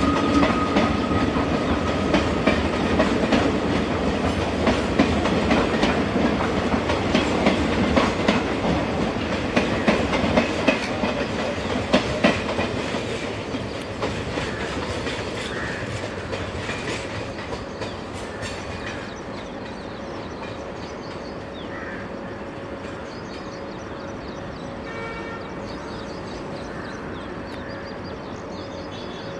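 Passenger express coaches rolling past, their wheels clattering rhythmically over the rail joints. The clatter fades steadily over the second half as the last coach draws away into the distance.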